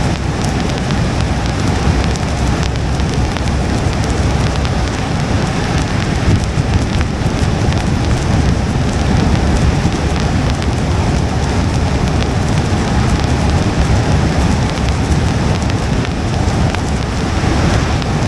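Steady rain pattering on a moving car's windshield and body, with scattered drop ticks, over a constant low rumble of tyres on a wet road.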